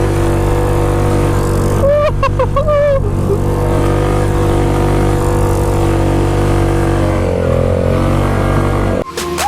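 ATV engine running at a steady speed, with a brief wavering higher tone about two seconds in; the sound cuts off suddenly near the end.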